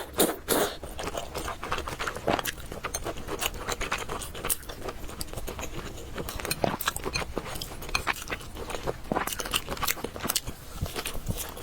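Close-miked mukbang eating sounds: chewing and mouth smacks with many quick irregular clicks, some louder near the start and about nine seconds in.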